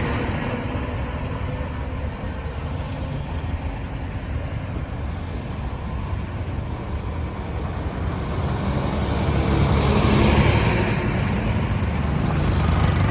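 Road traffic noise: a steady low rumble of vehicle engines and tyres, swelling louder about ten seconds in as traffic passes close.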